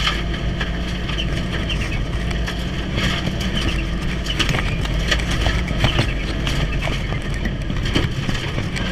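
Cabin sound of a turbocharged four-cylinder Mitsubishi Lancer Evolution running hard. The engine note is steady, under frequent short knocks and rattles.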